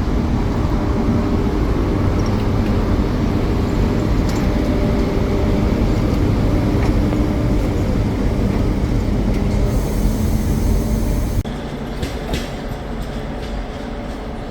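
Passenger train running on rails: a steady, loud rumble of wheels and carriage. It drops abruptly to a quieter rumble about eleven seconds in, with a few light clicks after.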